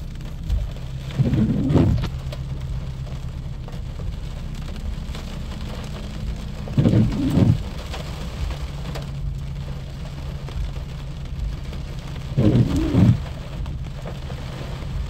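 Steady rain falling, with a low hum underneath. Three short, low sounds come about five seconds apart.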